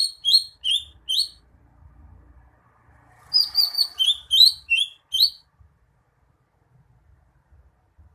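Cucak hijau (green leafbird) singing: a phrase of four sharp chirping notes at the start, then after a pause a longer phrase of about eight quick notes.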